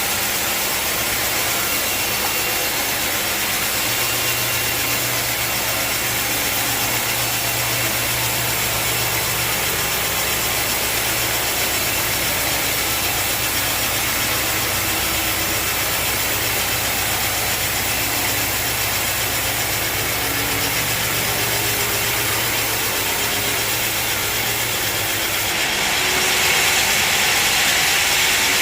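Sawmill running steadily, an engine hum under the hiss of a saw in wood. Near the end the low hum drops away and the higher hiss grows louder.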